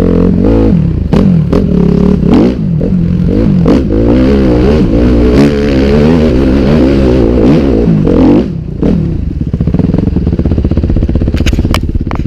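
Dirt bike engine revving up and down over and over, with sharp clattering knocks, then dropping to a lower, steadier running about two thirds of the way through.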